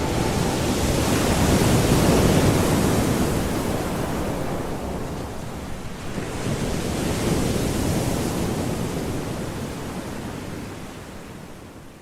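Sea surf rushing in two long swells, the second fainter, then fading out near the end.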